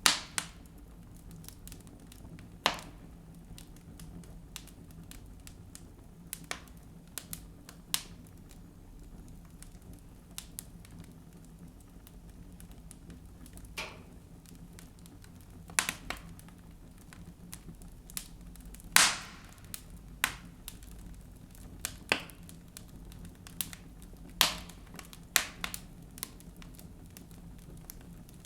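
Wood fire burning in a fireplace, with irregular sharp crackles and pops over a low steady background; the loudest pop comes about two-thirds of the way through.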